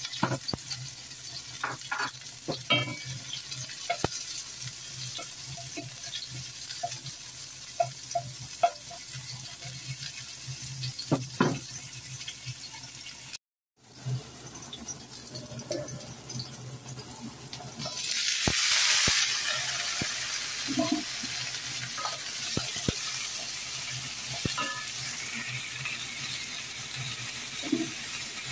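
Chopped onion, garlic and ginger sizzling in hot oil in a wok, with scattered light knocks. About two thirds of the way through, raw chicken pieces go into the wok and the sizzling turns louder and fuller, with a wooden spatula stirring the pieces.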